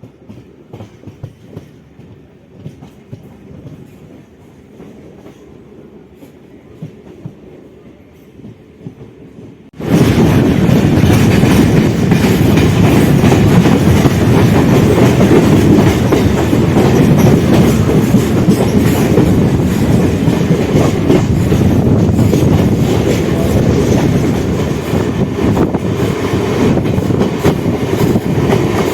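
Suburban electric local train running on the rails, heard from on board: fairly quiet with faint wheel clicks at first, then about ten seconds in it suddenly becomes much louder, a steady rush of wheel and rail noise that carries on.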